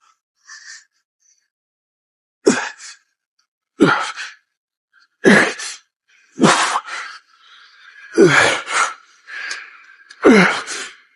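A man grunting and exhaling hard on each rep of a heavy chest press, six times about every one and a half to two seconds, each a short, falling, breathy push.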